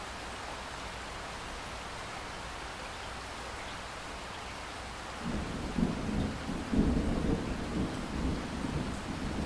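Steady rain hiss, then, a little over halfway through, a loud, low, rolling rumble of thunder that swells and keeps rolling.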